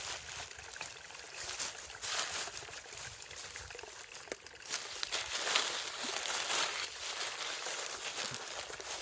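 Rustling and crinkling of grass and leaf litter as porcini mushrooms are handled and picked by hand, in uneven bursts, louder about two seconds in and again for a stretch past the middle.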